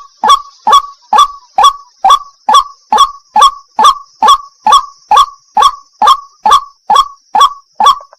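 White-breasted waterhen ('wak-wak') calling: loud, short, sharp notes repeated evenly about twice a second, around eighteen in a row, stopping just before the end.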